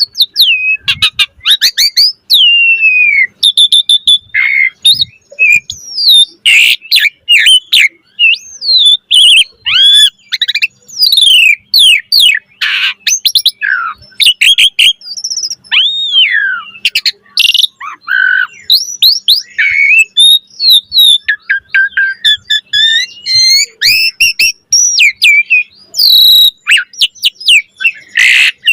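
Asian pied starling in full song: a fast, varied, nonstop run of rising and falling whistles, chirps, harsh rasping notes and sharp clicks.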